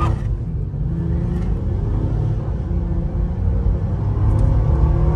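2016 Acura MDX's 3.5-litre V6 running with a steady low drone, freshly tuned up with cleaned fuel injectors and new spark plugs; the owner hears it as really smooth.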